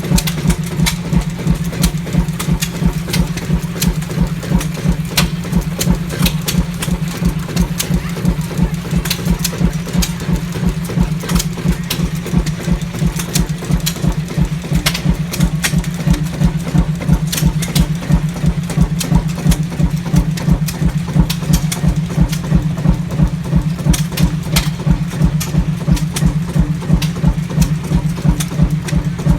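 Fairbanks-Morse single-cylinder two-stroke diesel engine running steadily with a slow, even thumping firing beat, several thumps a second, and sharp clicks every second or two.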